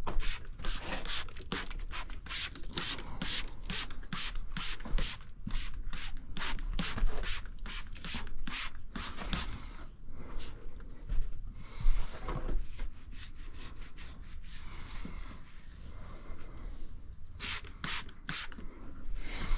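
Quick, repeated short rubbing or scraping strokes, a few a second, thinning out after about ten seconds and picking up again near the end, over a faint steady high whine.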